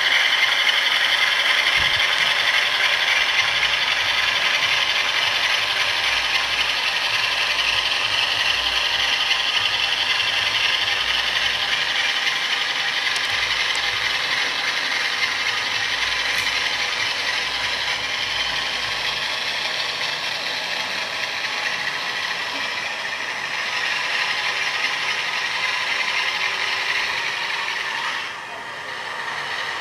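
Model Class 47 diesel locomotive running under a TTS sound decoder: the diesel engine sound comes through the loco's small onboard speaker with a thin, tinny rattle, mixed with the mechanical rattle of the model's drive. It eases off slightly partway through and dips briefly near the end.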